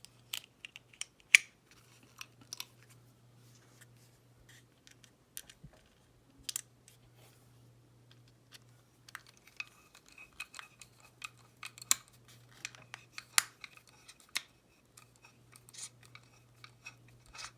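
Small scattered clicks and taps of a screwdriver and small screws working into plastic model-kit parts, with the parts being handled. A faint steady low hum runs underneath.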